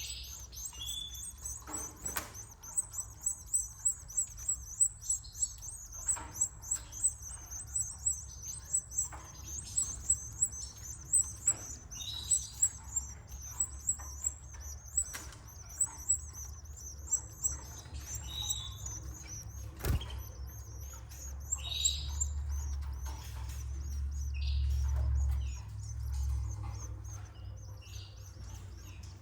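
Canaries chirping: rapid runs of high, thin chirps over the first two-thirds, with a few lower calls in between. A low rumble swells briefly about three-quarters of the way through.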